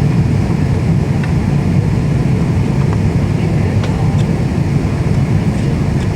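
Steady cabin noise inside an airliner in flight: an even, low rumble of the engines and rushing air, with a few faint ticks.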